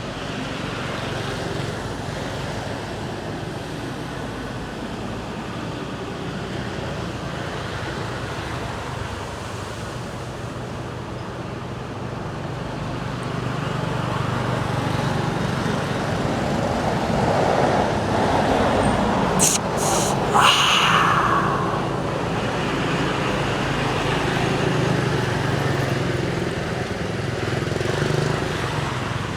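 Road traffic: steady vehicle noise with an engine hum that swells in the second half as traffic passes. About two-thirds of the way through there is a short cluster of sharp clicks and a brief higher sound.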